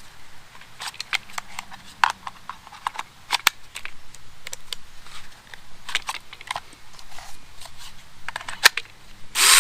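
Scattered, irregular light clicks, snaps and knocks. Near the end, the electric motor of a cordless mini chainsaw starts suddenly and runs loud and steady.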